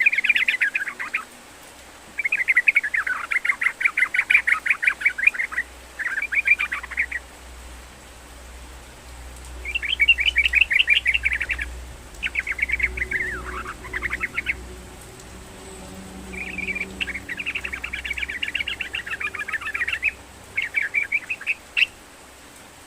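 Yellow-vented bulbul singing: bursts of rapid, chattering notes, each one to three seconds long, with short pauses between them.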